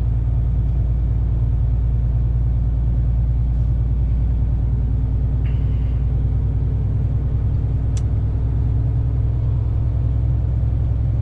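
Heavy truck's diesel engine running steadily under way, a low drone heard from inside the cab. A single sharp click sounds about eight seconds in.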